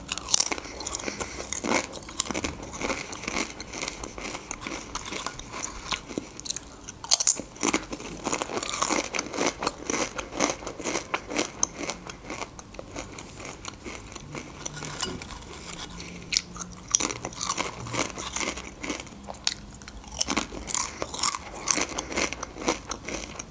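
Close-miked chewing of Doritos tortilla chips: a stream of irregular crisp crunches, thinning out in the middle and coming thicker again near the end.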